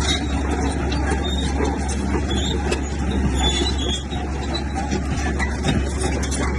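Heavy diesel earthmoving machinery running steadily under work, with a deep engine hum and short high-pitched squeaks.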